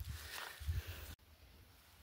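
Faint footsteps and rustling on a forest trail, with a few soft thumps. The sound cuts off abruptly about a second in, leaving near silence.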